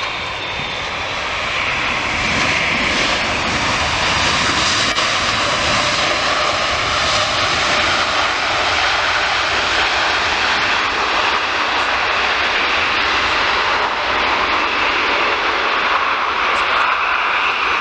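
An airliner's engines running loud at close range as the plane passes, a dense, steady roar that swells slightly about two seconds in and then holds.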